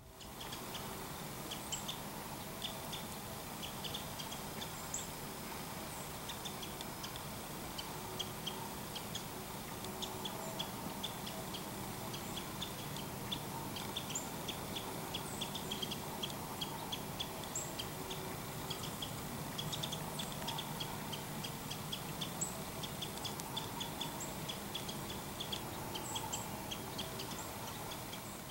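Outdoor ambience of birds: many short, high chirps repeating irregularly over a steady hiss.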